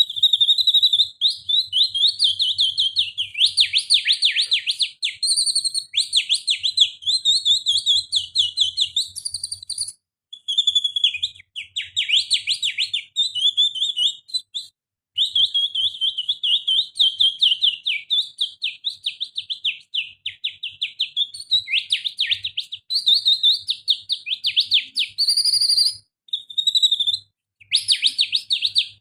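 Canary-style song imitated by a person whistling with a finger (little finger): long runs of fast, high-pitched trills and warbled chirps, broken by a few short pauses.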